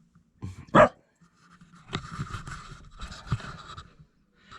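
A dog begging for food: one short, sharp bark or yip just under a second in, then about two seconds of breathy panting and whining.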